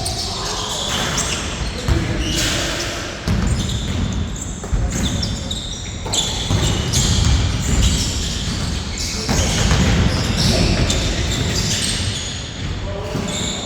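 Basketball game on an indoor court: the ball bouncing on the floor amid players' footsteps, echoing in a large hall.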